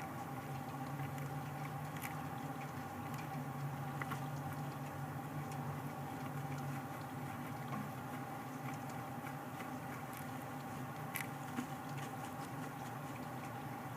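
Steady electrical hum of a nest-box camera microphone, with a few small clicks and scratches from the bird inside the box.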